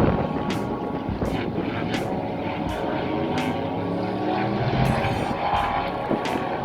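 Electric pit bike's 48-volt, 5000 W motor whining while being ridden, its pitch rising and falling with throttle and speed.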